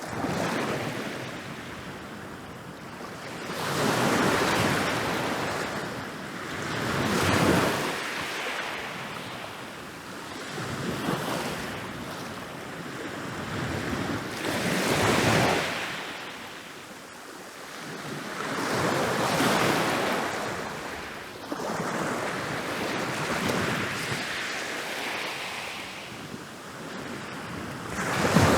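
Ocean waves rolling in and breaking on a beach. The surf swells and falls in long surges a few seconds apart, with a loud break near the end.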